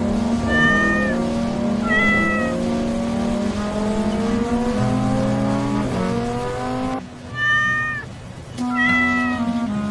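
A cat meowing four times in short calls that dip slightly in pitch at the end, over background music of sustained low notes and slowly rising tones.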